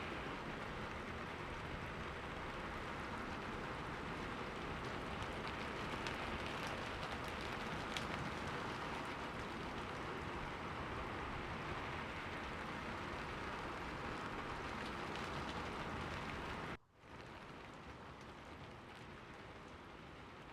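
Steady rain falling, a dense even hiss with scattered drop ticks. Near the end it cuts out for a split second and comes back quieter.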